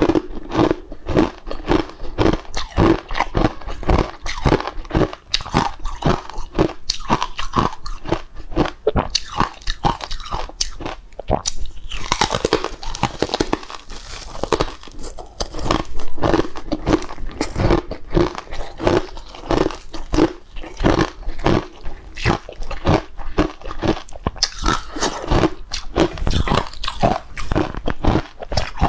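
Close-miked biting and chewing of a crunchy green porous snack: a steady run of crisp crunches, about two a second, with a louder crackly bite about twelve seconds in.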